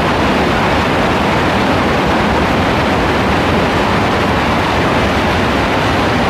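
Heavy rain falling, a loud, steady, even rush of noise with no breaks.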